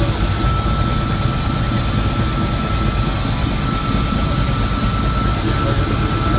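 Helicopter heard from inside the cabin in flight: a loud, steady rotor and engine drone with a constant high tone over it.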